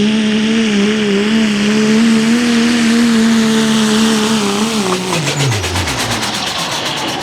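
Diesel 4x4 pickup truck engine held at high, steady revs under full load while pulling a weight sled. About five seconds in, the revs fall away sharply as the throttle is released at the end of the pull.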